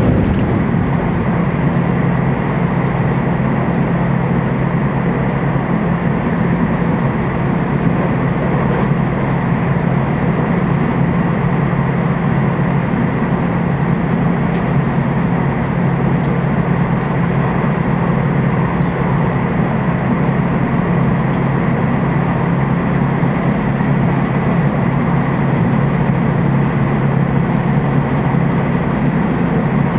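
Running noise inside a Taiwan Railways TEMU2000 Puyuma electric multiple unit moving along the line: a steady low rumble under an even hiss, with a thin high steady tone over it.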